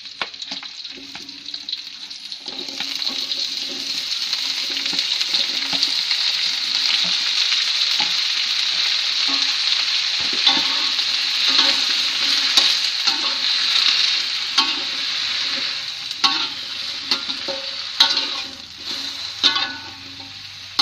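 Cut taro stalks frying in hot oil in a wok with fried garlic, shallots and chilies: a sizzle that builds over the first few seconds as the pieces go in, holds strong, then eases off near the end. A metal spatula scrapes and knocks against the wok as the stalks are stirred.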